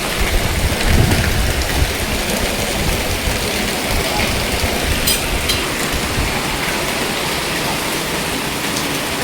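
Heavy rain pouring steadily, with a low rumble in the first couple of seconds.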